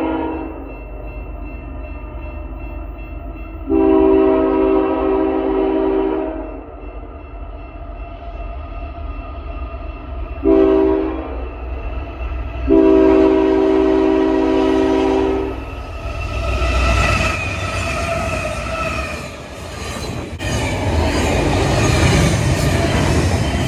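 An approaching BNSF freight locomotive sounds its air horn in the grade-crossing pattern: a long blast ending, then long, short, long. The diesel locomotive and train then pass close by, with loud engine rumble and the rattle of wheels on rail.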